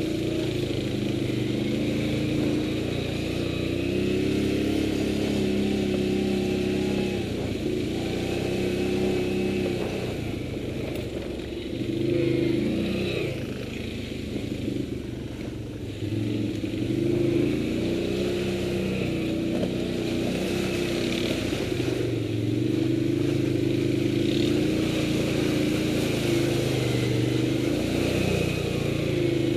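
Motorcycle engine running while riding along a rough, overgrown dirt track, its revs rising and falling repeatedly as the throttle is opened and closed.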